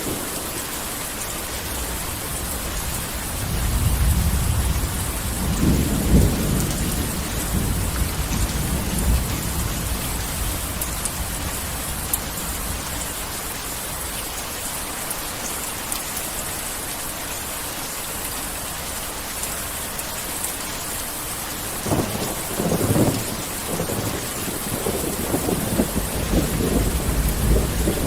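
Heavy rain falling steadily, with rolls of thunder rumbling low about four to seven seconds in and again from about 22 seconds in to the end.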